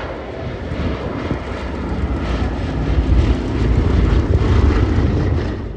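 Piston-engined warbirds flying past in a display, their aero engines loud and swelling as they pass, then cut off abruptly at the end.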